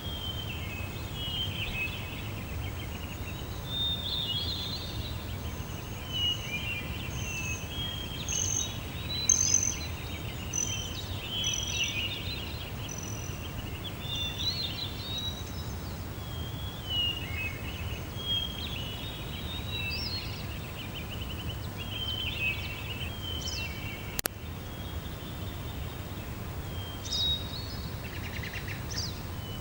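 Several birds singing and calling in overlapping chirps and warbles, with a series of short high notes midway, over a steady low background rumble. One sharp click late on.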